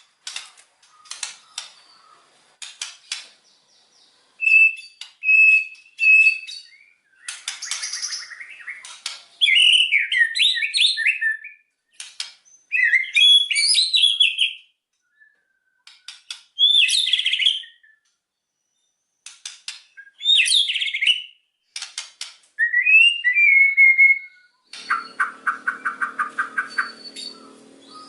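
White-rumped shama (murai batu) singing a varied song: sharp clicking notes, short clear whistles and fast warbled phrases, separated by brief pauses, with a harsh buzzing rattle near the end.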